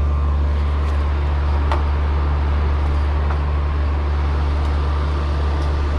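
Old R22 Lennox condenser running with a steady deep hum and a rush of fan air, its compressor now started on a new capacitor after the old one failed.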